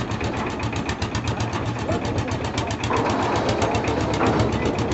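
Engine of construction machinery running steadily, with a rapid even beat.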